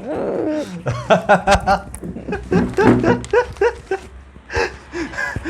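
A person's voice making repeated short wordless sounds in quick runs.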